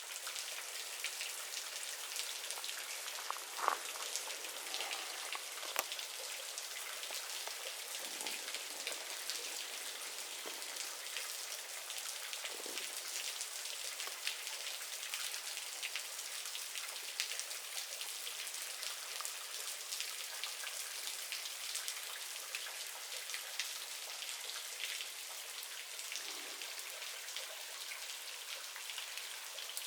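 Steady rain falling: a dense patter of many small drops, with an occasional louder tap.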